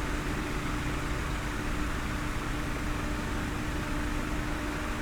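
Steady mechanical hum with one constant mid-low tone over an even background hiss, unchanging throughout.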